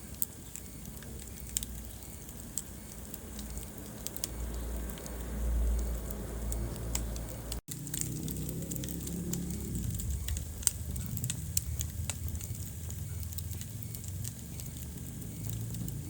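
Wood fire crackling in a fireplace: scattered sharp pops and snaps over a low, steady rumble of burning. The sound cuts out for an instant about halfway through.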